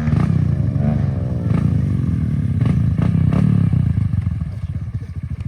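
Pit bike engines running and revving, one falling in pitch as it comes off the throttle about a second in; the engine noise drops lower near the end.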